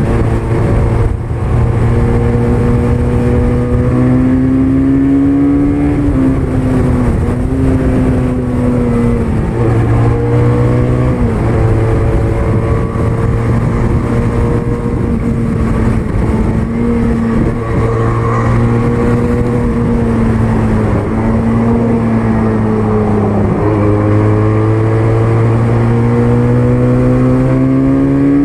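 QJ Motor SRK400 motorcycle engine and exhaust running at varying revs, its note climbing slowly and dropping sharply several times.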